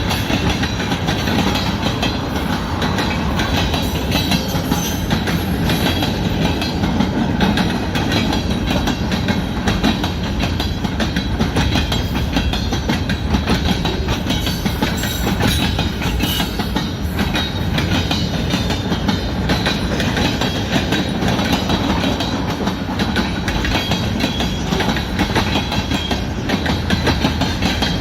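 Freight train cars rolling past, a steady rumble with the wheels clacking over rail joints.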